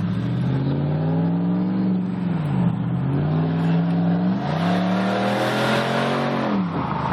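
Jeep Commander's 4.7-litre V8 with no muffler, exhaust running loud under acceleration. The engine note holds, dips and climbs back twice, then falls away near the end.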